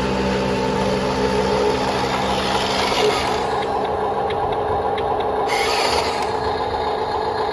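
Huina 1573 RC dump truck's small electric motor and plastic gears running with a steady gritty rasp.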